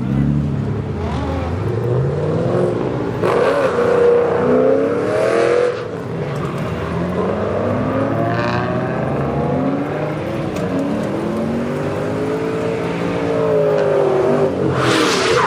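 Engines of several drift cars, among them Nissan 350Zs and a Scion FR-S, driving past one after another at low speed, their pitch rising and falling as they rev. The loudest passes come a few seconds in and again near the end.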